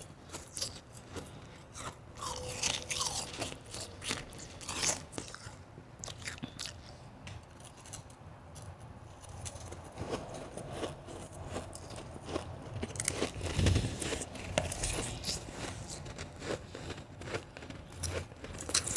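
Close-up of a person biting and chewing blended and shaved ice, with soft, irregular crunching.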